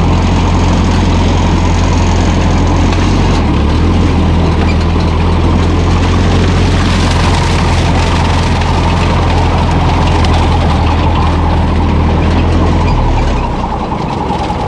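Old Ferguson tractor engine running steadily with a deep hum. Near the end the low note drops away and the engine gets quieter, as it is throttled down.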